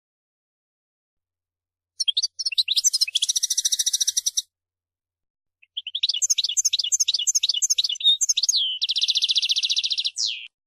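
European goldfinch singing: two high twittering phrases, the first starting about two seconds in, the second of quick repeated rising notes that run into a fast buzzy trill and end on a falling note.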